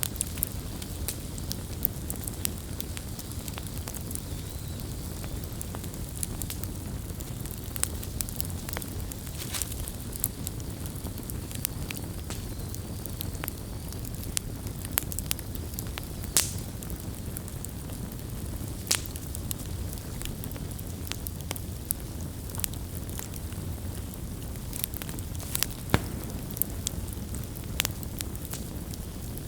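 Campfire burning with a steady low rumble and constant irregular crackling and popping of the wood, a few louder pops standing out.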